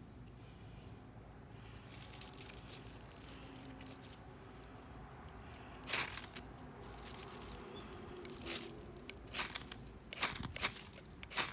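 Knife blade shaving curls off a wooden stick to make a feather stick: a quiet start, then about six short, sharp scraping strokes at uneven intervals from about six seconds in.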